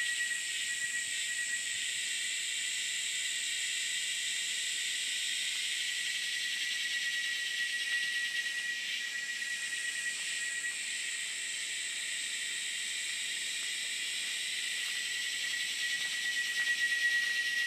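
Chorus of rainforest insects: a steady, high-pitched drone with one constant tone and a band of higher buzzing above it, unbroken throughout.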